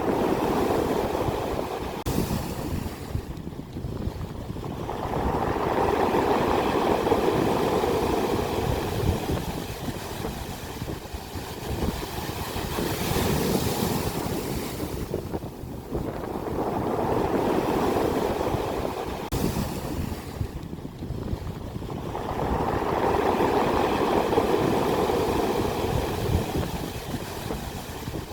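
Sea waves breaking on the shore and washing back, swelling and falling about every five to six seconds.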